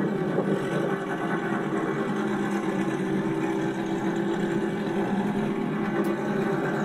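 Drag racing car engine idling steadily at the start line, with no revving.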